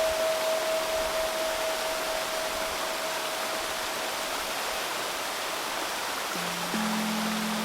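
Steady murmur of a shallow river running over stones, under pure Solfeggio tones. A single higher tone fades away over the first few seconds. About six and a half seconds in, two low steady tones come in one after the other.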